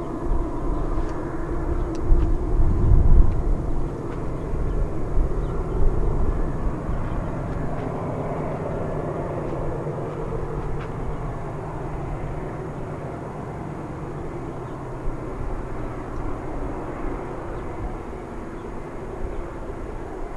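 Diesel locomotives of a freight train running, a steady engine drone over low rumble, heaviest a few seconds in.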